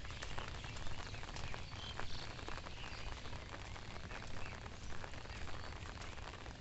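Faint outdoor rural ambience after rain: a steady crackle of many small ticks, with a few faint bird chirps.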